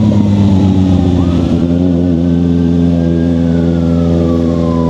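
Kawasaki Ninja sportbike engine running at steady revs. A siren wails over it, its pitch rising and falling slowly.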